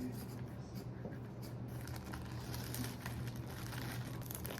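A steady low hum with faint scattered rustles and light clicks, like quiet handling of things near the microphone.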